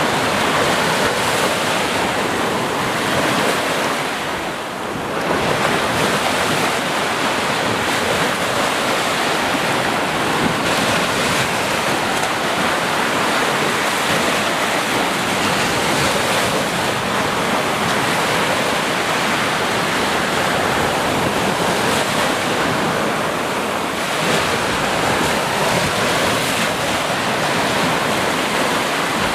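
Sea waves washing onto a shore: a continuous, steady rush of surf that eases briefly about five seconds in.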